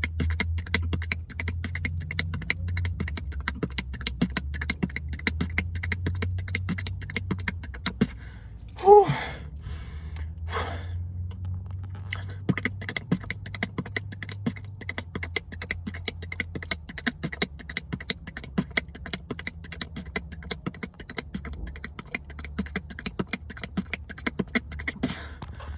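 Human beatboxing: a long, fast run of rapid mouth clicks and percussive sounds over a steady low hum, with a short loud pitched vocal sound about nine seconds in and a brief pause just after.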